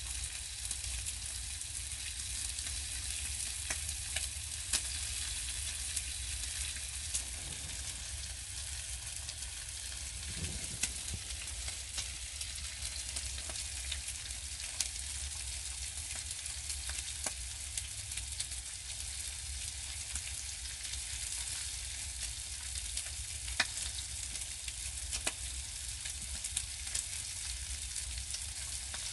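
Food frying in a pan: a steady sizzling hiss with many small crackles and pops, over a low steady hum.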